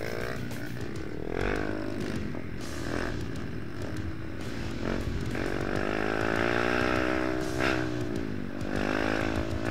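Trail motorcycle engine revving up and down, its pitch climbing and falling over a few seconds at a time, with a few short knocks along the way.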